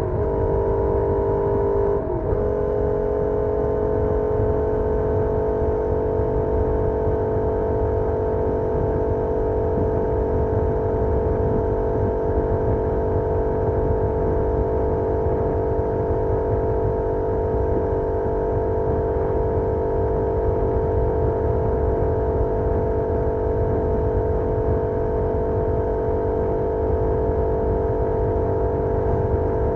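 Benelli Leoncino 800's parallel-twin engine through its stock exhaust, heard from on board while riding. The note steps in pitch at the start and again about two seconds in, as with gear or throttle changes, then holds steady at a constant speed over a rush of wind.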